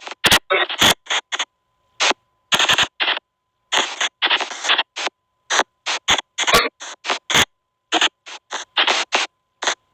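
Spirit-box app (SP White Noise Box) sweeping: short, abruptly cut bursts of hiss and clipped voice-like fragments, two or three a second with dead gaps between, over a faint steady tone.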